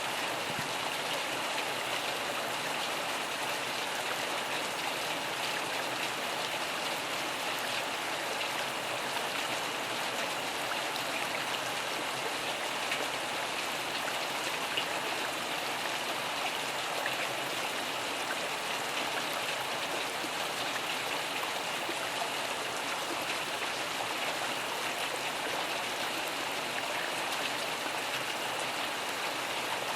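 Steady rain falling, an even hiss of drops with a few slightly louder drops in the middle; no thunder.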